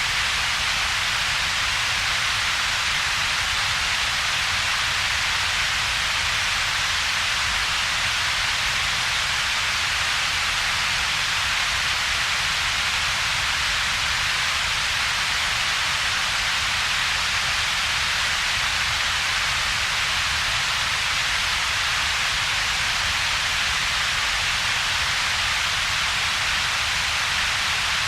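Synthetic double-peaked noise: a steady, unchanging hiss with most of its weight in the upper middle of the range and a weaker low rumble beneath, with a gap between the two. It is generated noise whose power is shaped into two peaks.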